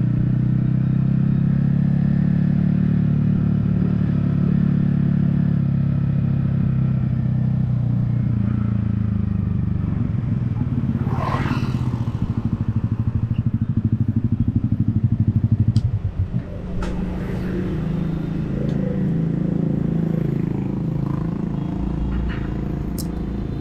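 Yamaha XSR155's single-cylinder engine running steadily under way, heard from a helmet-mounted camera. About 16 seconds in the engine note drops off sharply, and the rest is lower and uneven with a few clicks.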